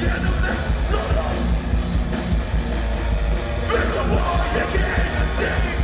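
Live metalcore band playing loudly: distorted guitars, bass and drums, with shouted vocals.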